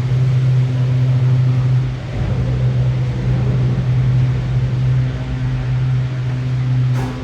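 Steady low machine hum of an aerial cable car, heard from inside a gondola cabin at a station, with a short click near the end.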